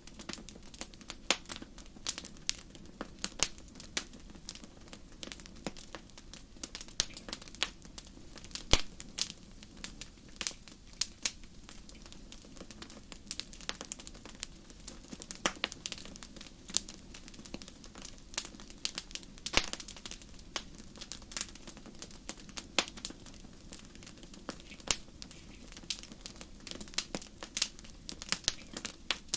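Fire in a fireplace crackling: irregular sharp pops and snaps, several a second, over a soft low steady hiss.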